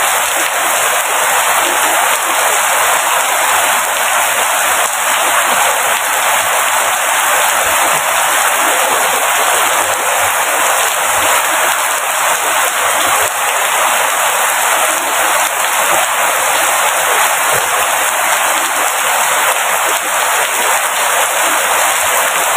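Heavy rain falling steadily: a dense, even hiss of drops with no breaks or changes.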